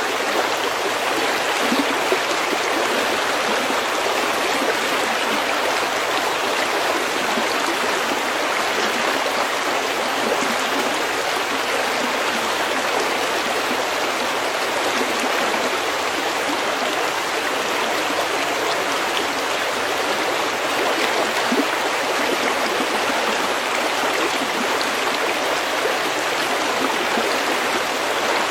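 Steady rushing and babbling of a creek flowing over stones, even and unbroken throughout.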